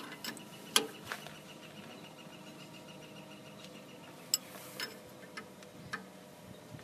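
Scattered sharp metal clicks and taps of an 11/16 wrench on a brake hose fitting being tightened into a caliper. The loudest click comes just under a second in, and a few lighter ones are spread through the rest.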